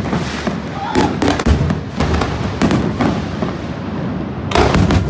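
New Year fireworks going off: a constant crackle and popping, with clusters of heavier bangs about a second in, near the middle and near the end.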